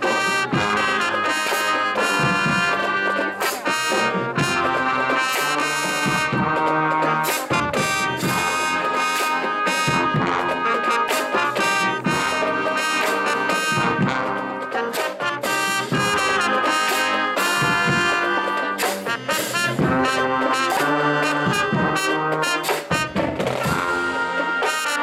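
Marching band playing, brass (trumpets and trombones) carrying the tune over drums hitting a steady beat.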